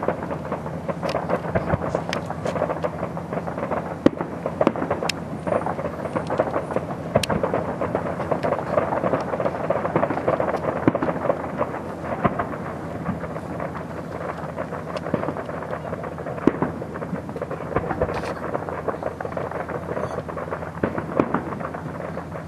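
Fireworks display: a dense, continuous run of overlapping bangs and crackles with rumbling booms.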